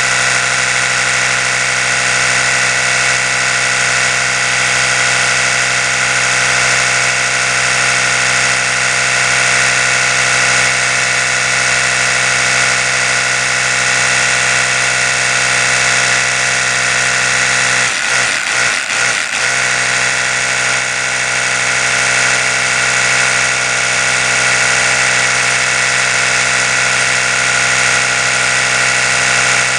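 Oral-B electric toothbrush running continuously, its motor and spinning brush head giving a steady, high buzzing hum. About eighteen seconds in, the hum briefly stutters with a few quick dips before running on evenly.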